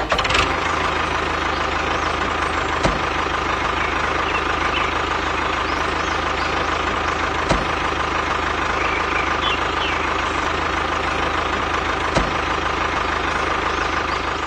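Small engine of a DIY mini tractor running steadily, with a sharp knock about every four and a half seconds.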